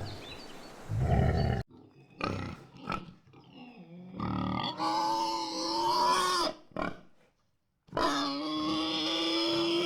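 A low big-cat growl that cuts off about one and a half seconds in, then domestic pigs: a few short grunts and two long, steady squeals of about two seconds each.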